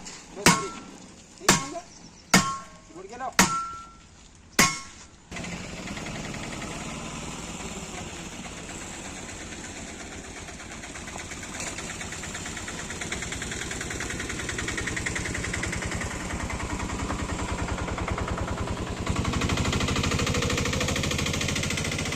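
Hammer blows ringing on a metal wheel rim, about one a second, five strikes. About five seconds in an engine starts and runs steadily at idle, growing a little louder near the end.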